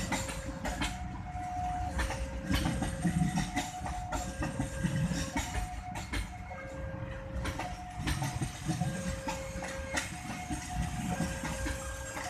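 Railway level-crossing warning alarm sounding a steady two-tone ding-dong, a higher and a lower note taking turns about once a second, over the low rumble of a passing train.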